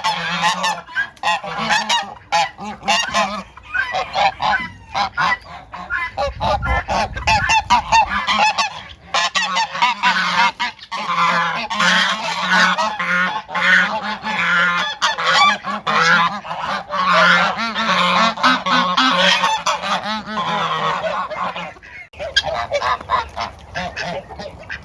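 Domestic geese honking continuously, many calls overlapping from a flock being fed.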